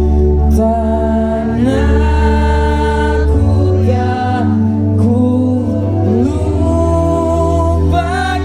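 Live band music: a slow sung melody, with voices that sound like a group singing, over sustained keyboard chords and a steady bass.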